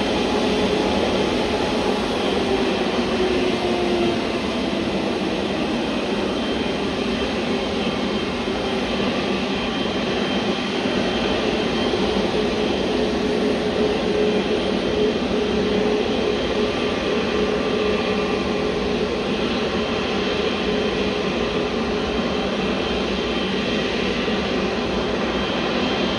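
Jet airliner engines running, a steady loud rush of noise with faint whining tones, one of which falls slightly in pitch over the first few seconds.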